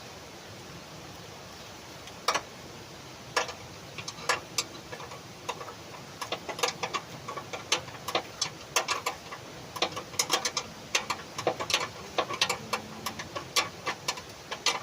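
Hand tools clicking and tapping on metal: sharp, irregular clicks, a few at first, then several a second from about six seconds in.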